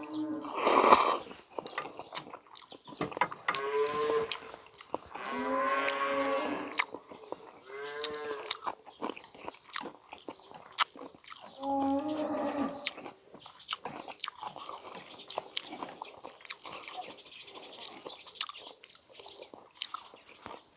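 A cow mooing four times, long drawn-out calls, among the small clicks and smacks of someone eating noodles, with a short loud slurp about a second in.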